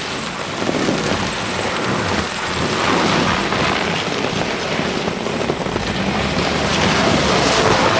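Loud, gusty rushing of wind on the microphone, swelling about three seconds in and again near the end.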